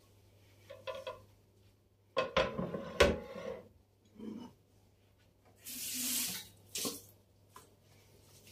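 Kitchen containers and dishes being handled: a clattering set-down two to three seconds in ending in a sharp knock, a few lighter knocks, and a brief rushing hiss about six seconds in.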